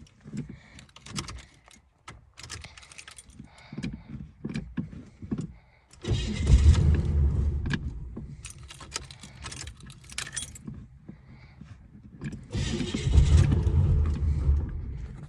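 The starter cranks an old car's cold engine in two tries of a few seconds each, about six and about twelve seconds in, and the engine does not catch. The engine has sat unused for weeks in the cold. Between the tries, keys jangle and click at the ignition.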